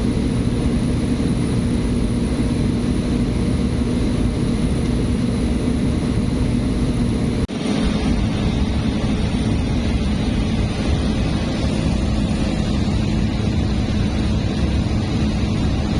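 Small propeller airliner's engine droning steadily, heard from inside the cabin, with a momentary break about seven and a half seconds in.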